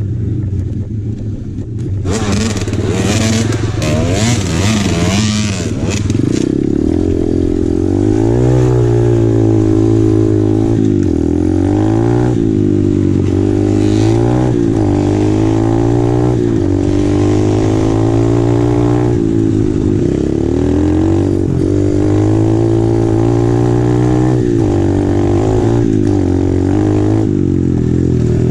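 Apollo RFZ 125cc pit bike's single-cylinder four-stroke engine riding along a trail, its pitch rising and falling over and over as the throttle is opened and closed. It is quieter for the first couple of seconds, and from about two seconds in a hissing rush lasts a few seconds under the engine.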